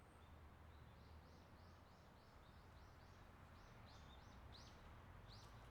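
Faint outdoor quiet with a small bird calling a rapid series of short high chirps, about three a second, over a low steady rumble.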